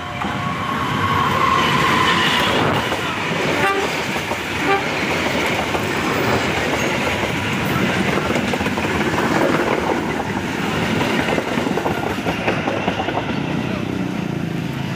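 A diesel-hauled train running close past, a loud steady rumble and clatter of locomotives and wheels that swells over the first two seconds and holds, with a sharp click about four seconds in.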